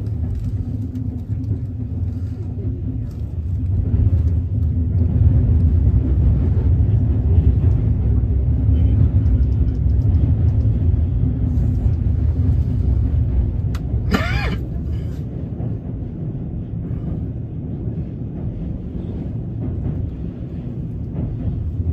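Steady low rumble of a train running along the track, heard from inside the carriage, with a held hum over it. A brief high squeal about fourteen seconds in.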